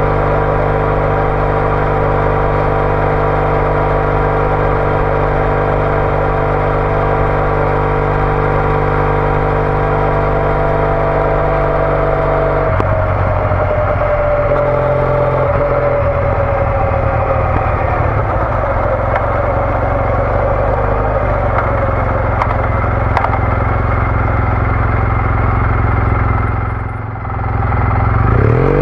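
Triumph Bonneville T214's parallel-twin engine running under way through a TOGA aftermarket exhaust. The engine note changes abruptly about halfway through, then dips briefly near the end before rising again.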